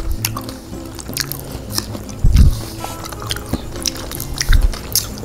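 Close-miked biting and chewing of fresh, juicy strawberries dusted with powdered sugar: many wet, sharp mouth clicks and squishes, over quiet background music. Two loud low thumps, about two and four and a half seconds in, stand out above the chewing.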